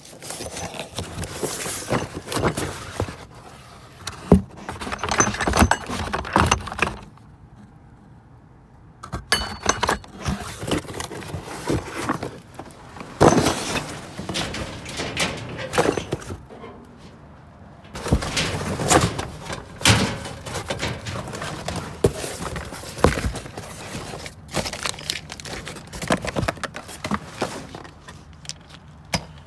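Metal door locks and hardware clanking and jangling against each other as they are rummaged through and handled, in irregular clatters broken by a couple of short lulls.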